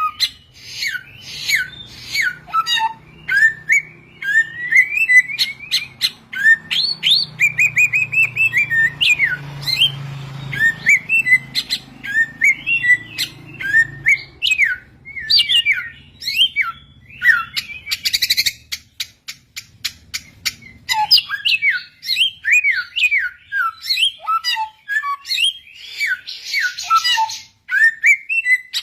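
Samyong, an Indonesian endemic songbird, singing a long run of quick chirps and whistled notes that sweep up and down, with barely a pause. A faint low rumble sits under the song for most of the first twenty seconds, then fades.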